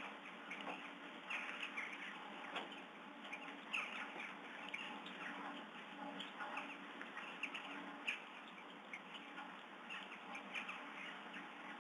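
Small birds chirping in many short, quick calls over a steady hiss of light rain, heard through a webcam's narrow-band microphone.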